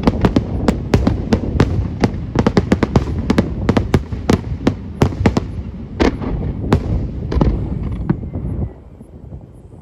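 Fireworks display barrage: rapid aerial shell bursts and crackling reports, several bangs a second over a continuous low rumble. The barrage dies down sharply near the end.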